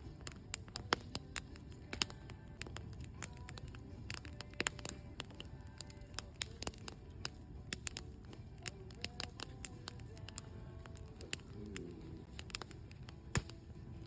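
Campfire crackling: burning wood gives off irregular sharp pops and snaps, some louder than others, over a steady low rush of the fire.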